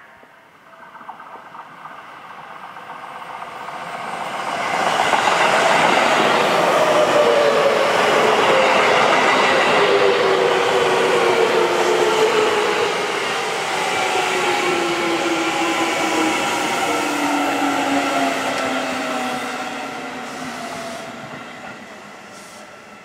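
Seibu 9000 series electric commuter train passing, its wheel and running noise building to a steady loud rumble and then fading away. Several whining tones from its motors fall slowly in pitch as it goes by.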